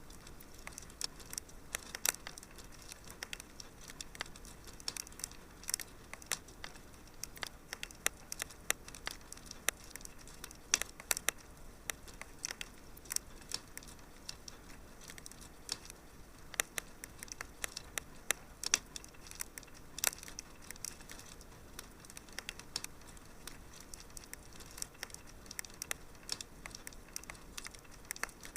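Wood fire crackling in a fireplace: many small sharp pops and snaps at irregular intervals over a faint steady hiss.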